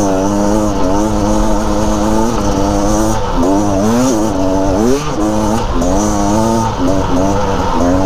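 Dirt bike engine under load on a steep, rocky climb, running fairly steady for the first two seconds and then revving up and dropping back again and again as the throttle is worked.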